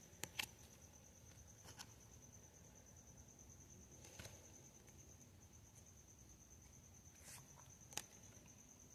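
Near silence, with a few faint, scattered taps and clicks of Pokémon trading cards being handled and laid out, over a faint steady high whine.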